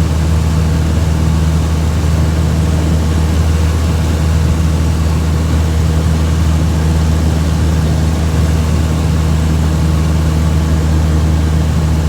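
Steady low engine drone, unchanging throughout.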